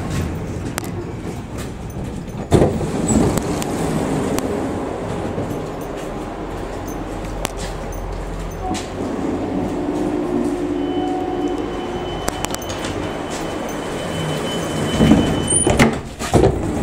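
Inside a regional electric commuter train: a steady low rumble, a few knocks, and a thin high whine in the second half. Near the end the passenger door's open button is pressed and the sliding door works, with a burst of clunks.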